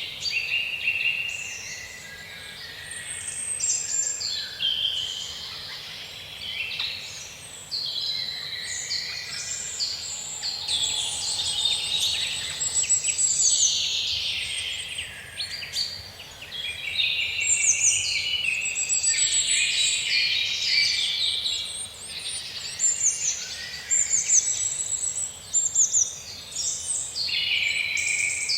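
Forest birds singing, many overlapping chirps, whistles and quick trills in a continuous dense chorus.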